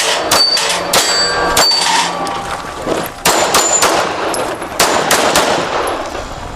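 A string of pistol shots fired in quick groups during a stage run, with steel targets ringing out after several hits.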